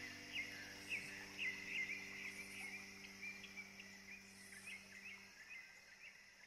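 Faint, quick bird-like chirps repeating a few times a second over a low steady hum, the whole sound fading out steadily.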